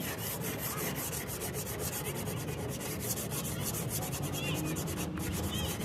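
Rapid, even back-and-forth rubbing strokes, like a surface being sanded by hand.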